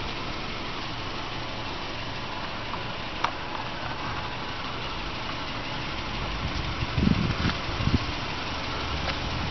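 2009 Subaru Forester's 2.5-litre flat-four engine idling steadily, with a click about three seconds in and a few dull low thumps around seven seconds in.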